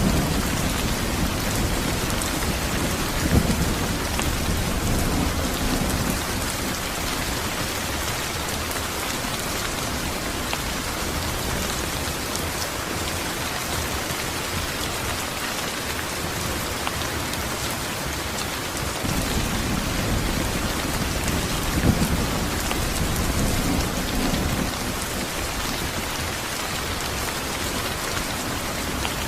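Steady rain falling on a surface, a dense even hiss. Low rumbles of thunder swell up in the first few seconds and again about two-thirds of the way through.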